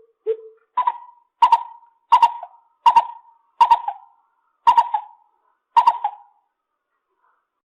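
Lesser coucal calling: a series of about eight short, low hooting notes. The first is pitched lower, and the rest come slower, with the gaps widening toward the end.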